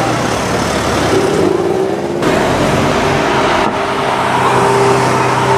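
Lamborghini Aventador S's V12 engine running in street traffic, its note rising briefly about a second in.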